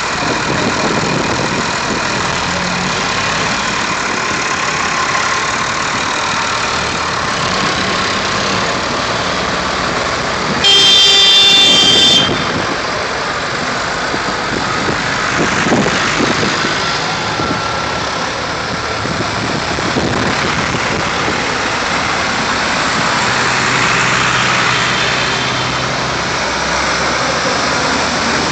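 Vintage tractor engines running as a convoy of tractors moves along, with one loud vehicle horn blast lasting about a second and a half near the middle.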